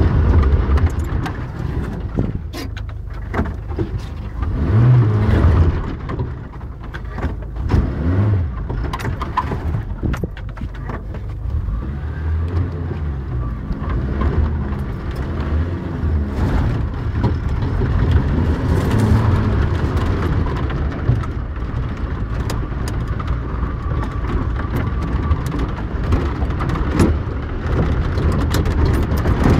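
Suzuki Samurai's engine heard from inside the cabin while it drives over rough dirt, its revs rising and falling again and again, with repeated knocks and rattles from the bodywork over the bumps.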